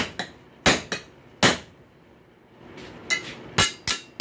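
Blacksmith's hammer striking a punch to drive the slug out of a hot rail spike over a wood block: sharp metallic blows with a short ring, a few in the first second and a half, a pause, then a quicker group of three or four near the end.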